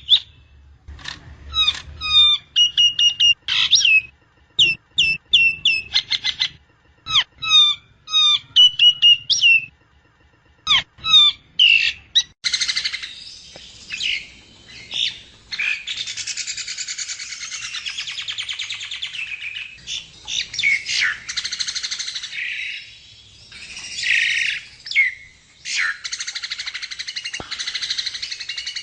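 Nias hill myna singing. Loud whistles and clicking notes come in short phrases with gaps, then about twelve seconds in it breaks into a continuous, rapid, harsh chatter.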